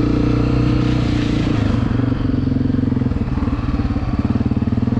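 Dirt bike engine running steadily, then easing off about two seconds in to a lower, pulsing note.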